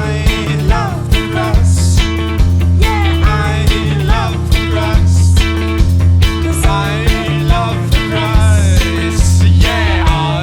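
Rock band playing an instrumental passage: drums keep a steady beat about twice a second under bass and electric guitar, with guitar lines that bend in pitch.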